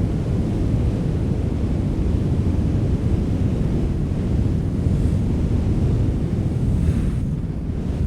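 Strong wind blowing: a steady, deep rumbling rush with gentle swells, and a slightly brighter gust a little before the end.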